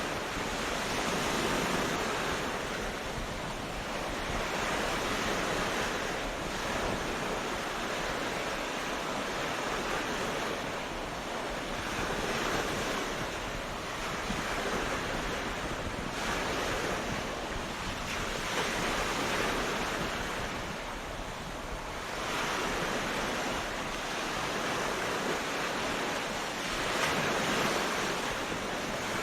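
Ocean waves breaking on a beach, each swell of surf rising and washing out every few seconds in a steady rhythm.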